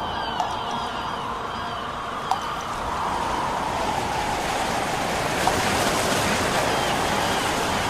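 Steady wind-like rushing noise that swells about halfway through, with a few light clicks and faint chirps, heard in the opening of a recording.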